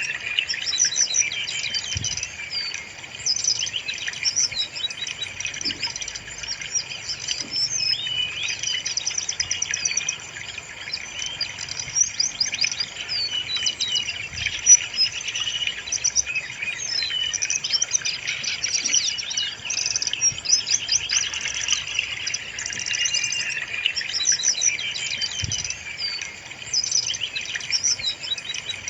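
Brown-chested jungle flycatcher singing continuously: a dense, rapid run of high chirps and short trills with no pauses.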